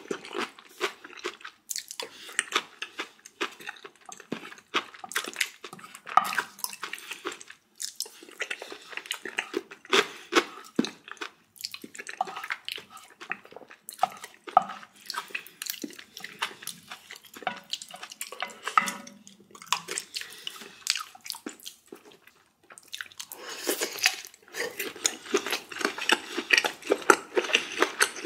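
A person eating close to the microphone: steady chewing with wet mouth sounds and small clicks. The chewing grows denser and brighter in the last few seconds.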